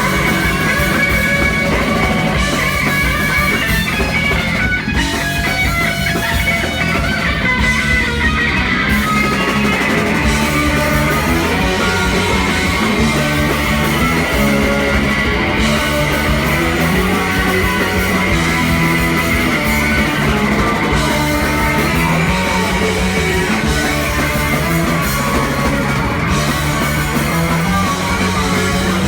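Punk rock band playing live: electric guitars and drum kit, loud and continuous.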